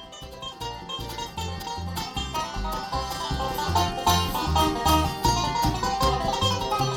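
A live bluegrass band playing a song's instrumental intro, with a steady bass line on the beat under picked string instruments, getting louder over the first couple of seconds.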